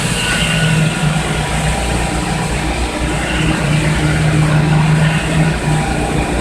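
Engine of heavy machinery running steadily at a concrete pour, with a constant low drone that swells and eases a little.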